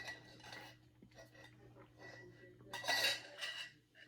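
Cutlery scraping and clinking against a dish while eating, loudest for about a second near the end.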